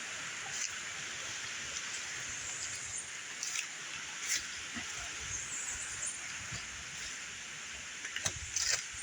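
Steady rushing of a flowing river, with scattered light clicks and a few louder taps near the end.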